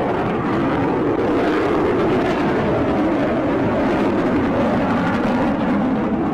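Rocket Lab Electron's first stage, nine Rutherford kerosene engines, firing during ascent: a loud, steady rushing rumble.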